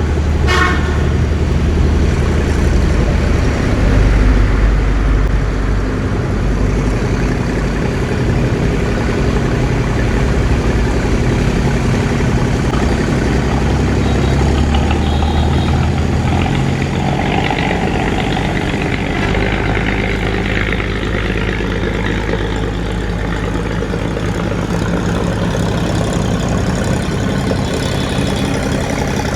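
Boat engine running steadily with a low-pitched drone, its note shifting a little about halfway through.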